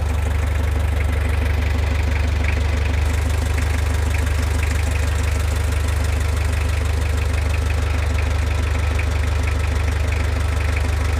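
Mazda R2 four-cylinder diesel engine idling steadily as it warms up, with an even, fast rhythmic ticking over a low hum.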